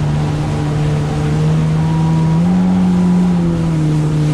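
Jet ski engine running steadily at cruising speed, its pitch rising slightly about halfway through, over the rush of water and wind.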